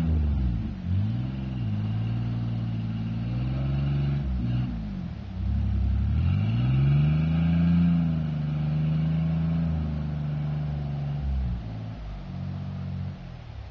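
Chevy Blazer's 4.3 V6 engine revving up and down several times, its pitch rising and falling in long swoops, as the two-wheel-drive truck is driven around in snow. It drops to a lower, steadier note near the end.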